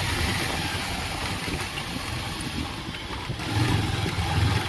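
Bajaj Pulsar 220's single-cylinder engine running under way, with steady wind noise on the microphone; the low engine drone grows louder about three and a half seconds in.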